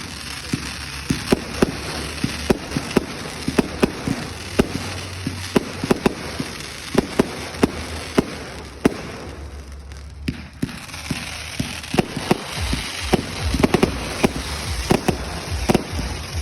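Fireworks going off: rapid sharp bangs, several a second, over continuous crackling, with a brief lull about ten seconds in.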